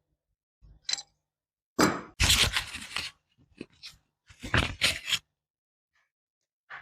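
Workshop handling noises of tools and parts: a short knock about a second in, then two longer scraping, crunching stretches, and a brief sound at the end.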